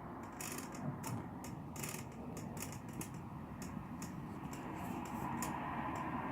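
Small birds pecking at corn chips: irregular sharp, high clicks, several a second, over a steady background hum.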